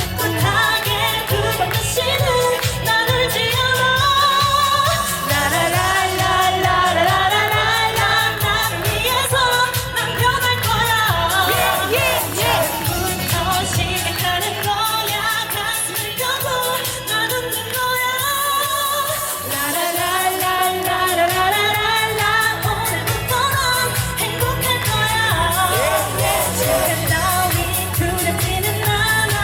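Upbeat Korean pop song performed live: a female lead vocal over a backing track with a steady beat.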